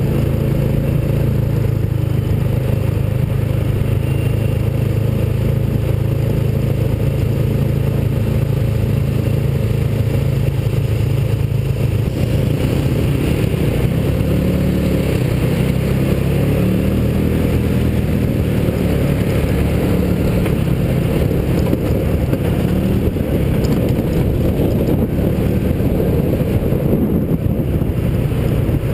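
Engine of a small open mini hot rod running steadily at road speed, heard from the car itself. Its note changes from about halfway through, rising for a while before settling.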